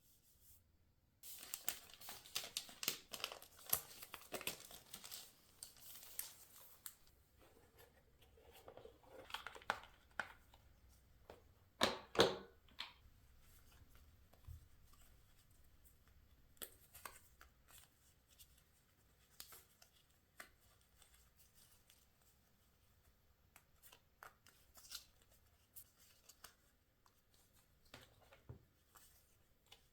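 Paper being torn and crinkled by hand for several seconds. A louder rustle comes about twelve seconds in, then scattered light rustles and taps of paper being handled.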